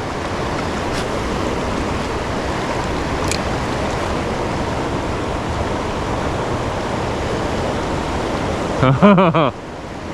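Steady rush of fast-flowing river water in the tailwater current below a hydroelectric dam. A short call with bending pitch cuts in near the end.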